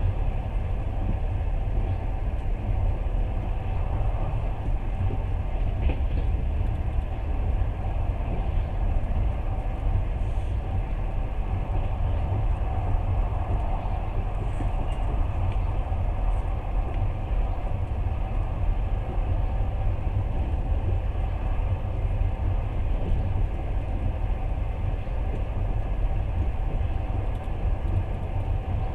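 Passenger train running steadily, heard from inside the carriage at the window: a constant low rumble of the moving train.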